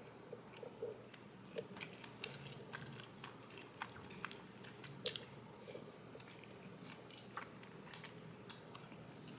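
Faint chewing and mouth sounds of someone eating soft raspberry cream cheesecake bites, with scattered small clicks; the sharpest comes about five seconds in.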